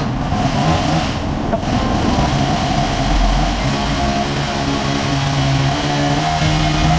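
Honda GTR 150's single-cylinder engine running while riding, its pitch steady with small shifts, under a loud haze of wind and road noise.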